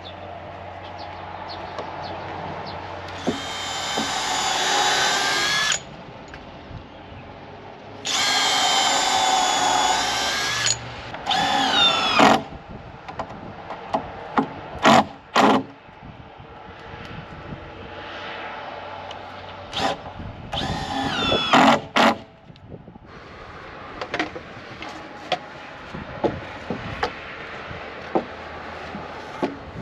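Power drill running in repeated bursts, its motor whine rising and falling in pitch. There are two runs of two to three seconds early on, then a string of short trigger bursts with sharp knocks between them.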